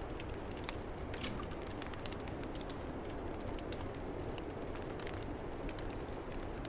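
Wood fire crackling in a fireplace, with irregular sharp pops and ticks, over a steady low rush of snowstorm wind.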